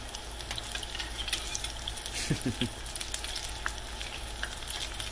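Apple fritter batter deep-frying in hot oil in a stainless steel pan, a steady crackling sizzle, with a metal spoon moving the fritters about in the oil. A short low sound comes about halfway through.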